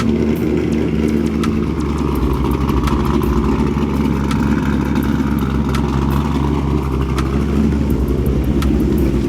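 A car engine running steadily at an even speed, just after being started.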